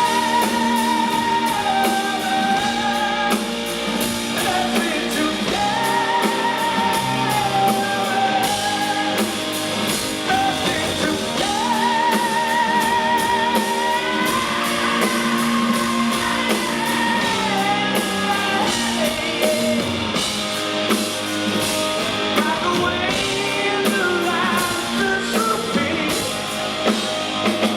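Rock band playing live with electric guitar and drums, under long held wordless sung notes that waver with vibrato.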